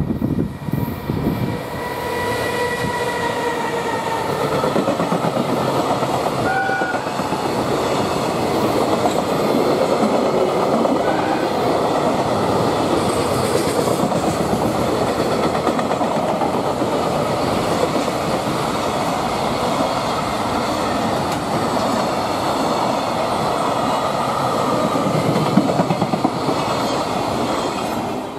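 Freight train passing at speed: a JR Freight EF210 electric locomotive followed by a long string of container flatcars, with a steady rumble and clatter of wheels over the rails. A brief high tone sounds a couple of seconds in, and the sound starts to fade as the last wagon goes by near the end.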